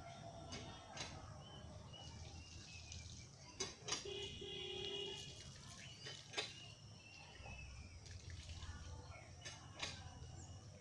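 Faint rural outdoor ambience: a steady low rumble with a few sharp clicks or knocks, and a brief pitched call about four seconds in.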